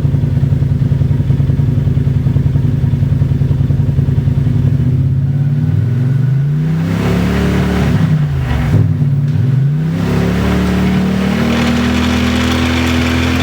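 2017 Polaris RZR Turbo side-by-side's turbocharged twin-cylinder engine and drivetrain. It runs steadily for about five seconds, then the engine speed rises and falls several times as the machine is driven. This is the drivetrain the owner is recording for a front-differential noise.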